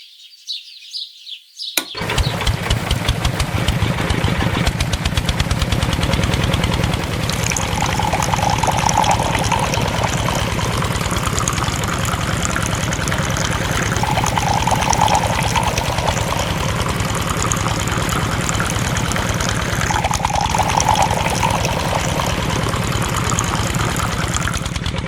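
A small engine starts abruptly about two seconds in and then runs steadily with a fast, even beat. Its note swells briefly three times, roughly every six seconds.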